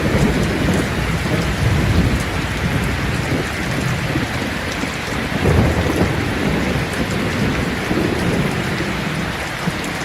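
Steady heavy rain with low thunder rumbling underneath, swelling at the start and again about halfway through.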